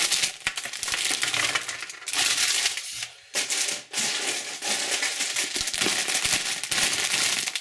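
Candy wrappers crinkling and crackling as they are handled, with two short breaks a little past three seconds and near four seconds in.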